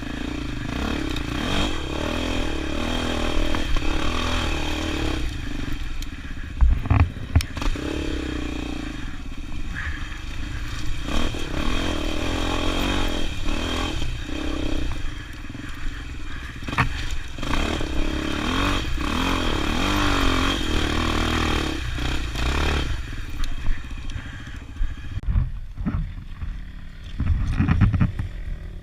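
Motorcycle engine running, its pitch rising and falling with the throttle, with a few sharp knocks about seven seconds in and again near the end.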